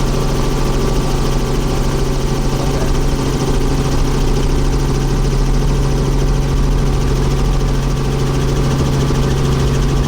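Helicopter in flight heard from aboard: steady engine and rotor noise with a strong, even low hum that does not change.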